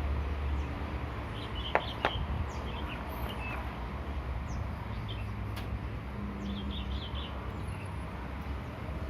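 Small birds chirping in short bursts over a steady low hum, with two sharp clicks about two seconds in.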